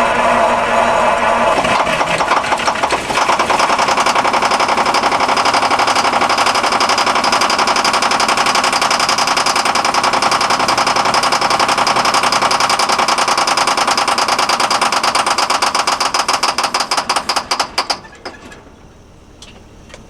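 Detroit Diesel 6V92 two-stroke V6 diesel turning over and firing in a first start-up attempt, loud with a rapid, even pulse. It cuts off suddenly near the end.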